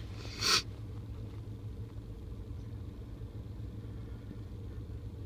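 Car engine idling with a steady low hum, and a short breathy rush of noise about half a second in.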